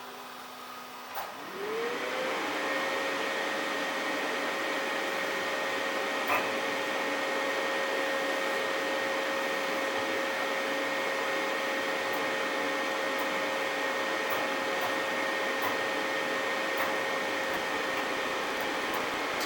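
Qidi X-Plus 3 3D printer's cooling fan starting up with a quick rising whine just after the print begins, then running steadily as an even whoosh of air with a steady tone. There is a click just before it starts.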